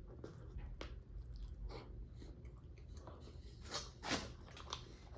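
Close-miked chewing of a mouthful of chicken saagwala: wet mouth clicks and smacks, with two louder smacks about three and a half and four seconds in.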